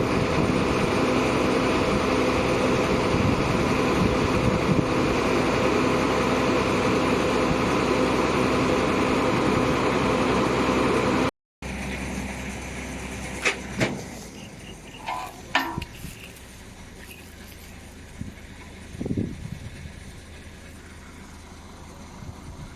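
A heavy diesel engine running steadily and loud for about eleven seconds, cut off abruptly; afterwards a much quieter background with a few scattered sharp knocks and clanks.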